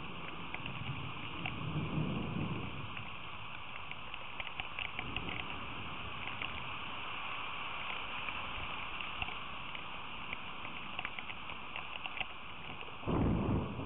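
Steady rain with scattered drop ticks. A low swell comes about two seconds in, and near the end there is a short, loud low thump.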